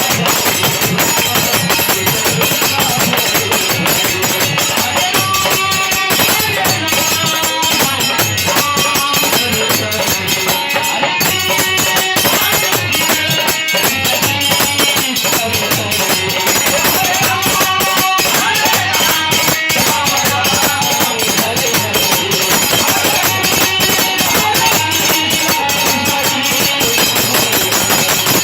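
Devotional kirtan music: fast, steady jingling percussion over a continuous melody line.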